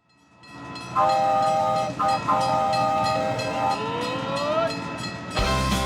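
Train sound effect fading in: a train horn sounding a chord in two blasts over the steady clatter of wheels on rail joints, with a rising whistle-like glide partway through. Music with a heavy bass comes in near the end.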